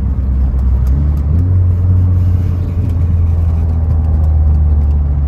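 Engine and road noise of a Mk4 Volkswagen GTI heard from inside the cabin while driving. The engine note steps up in pitch about a second and a half in as the car pulls harder, then holds steady.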